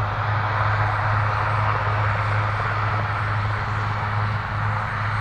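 RAF Puma helicopter running, a steady low hum with a rushing hiss over it.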